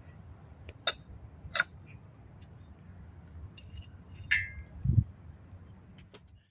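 A few scattered sharp clinks and taps of camp cookware and utensils, one with a brief ringing, then a single low thump about five seconds in.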